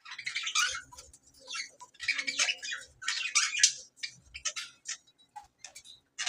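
Budgerigar chattering in several scratchy bursts mixed with short clicks, thinning to a few clicks near the end.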